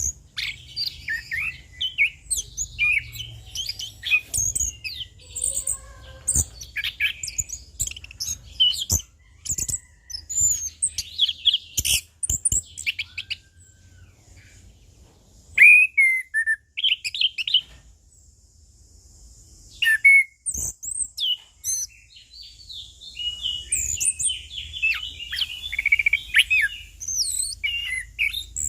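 Orange-headed thrush in full song: a fast, varied run of chirps, trills and whistled phrases, broken by two short pauses. A few sharp clicks cut in, the loudest about halfway through.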